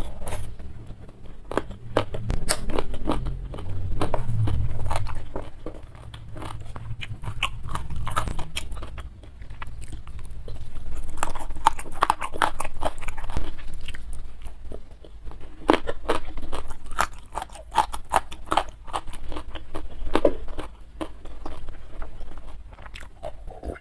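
Close-miked eating sounds: wet chewing, lip-smacking and a dense run of small mouth clicks as a mouthful of rice, sambal and fish is chewed.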